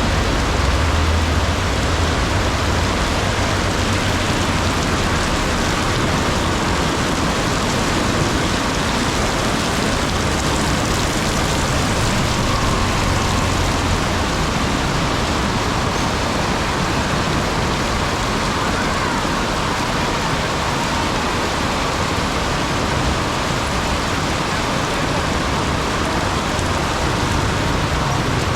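Heavy rain pouring down steadily, with road traffic running through it; a low vehicle rumble stands out in the first few seconds.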